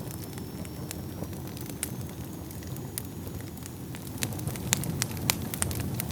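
Wood fire burning in a fireplace: a low, steady rumble of flames with sharp crackles and pops from the burning wood, the pops growing louder and more frequent about four seconds in.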